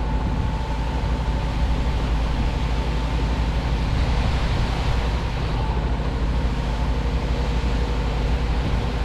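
Heavy diesel engine of a truck-mounted concrete pump running steadily under load, with a faint steady whine over it.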